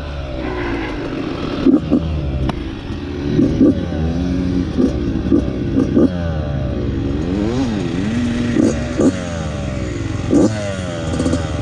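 Yamaha YZ85 two-stroke dirt bike engine revving while riding, its pitch climbing and dropping again and again as the throttle is worked.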